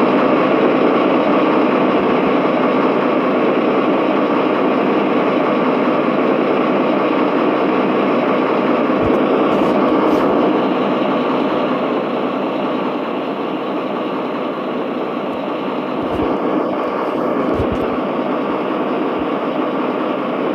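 Mitsubishi Fuso truck running, a steady engine noise that eases off slightly about twelve seconds in, with a few brief low thumps in the second half.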